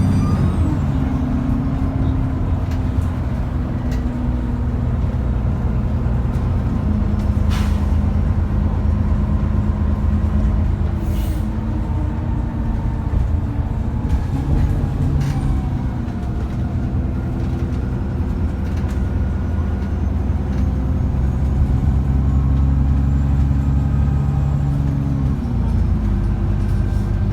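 Cummins ISBe 6.7-litre diesel engine of an ADL Enviro400 double-decker bus running under way, its note stepping up and down several times as the ZF automatic gearbox changes gear, with a faint high turbo whine rising and falling. A few short sharp sounds cut through it.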